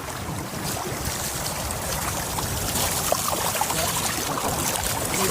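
River rapids rushing: a steady wash of fast-moving white water, slowly growing louder.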